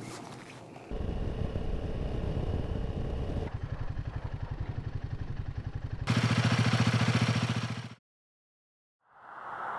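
Short cuts of a Royal Enfield Himalayan 450's single-cylinder engine running, first with a mechanical clatter and then as a steady low throb. The throb gets louder about six seconds in, and the sound then cuts to a second of silence before noisier engine sound fades back in.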